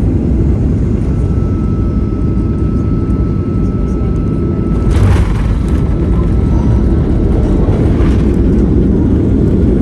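Boeing 737-800 jet airliner landing: a loud, steady low rumble with a faint steady whine through the middle, and two short sharp noises about five and eight seconds in.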